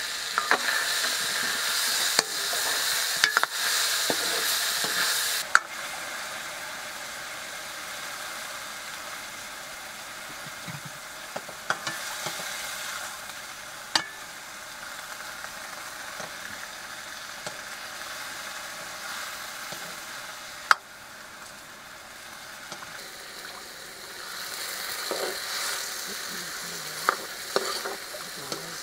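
Vegetable strips sizzling in a hot wok while a metal ladle stirs them, with a few sharp knocks of the ladle against the pan. The sizzle is loudest for the first five seconds, drops to a softer hiss, and grows louder again near the end.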